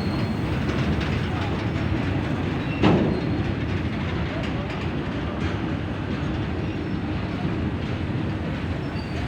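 Train running on the rails with a steady rumble and clatter, and one loud knock about three seconds in.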